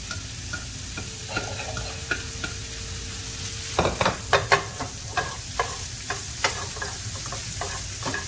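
Diced guanciale sizzling as it goes into a hot frying pan, with metal tongs clicking and scraping against the pan as the pieces are spread and stirred. The clicks come thickest and loudest about four to six seconds in.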